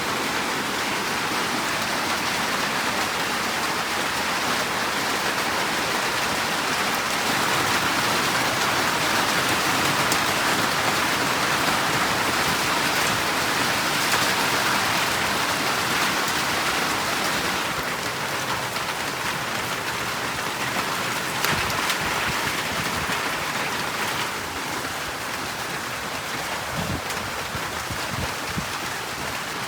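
Heavy rain falling steadily, a dense continuous hiss with a few faint knocks near the end.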